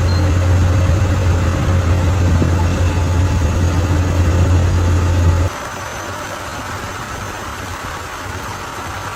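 Bulldozer's diesel engine running with a heavy, steady low hum. About five and a half seconds in, the sound drops suddenly to a quieter, even engine noise.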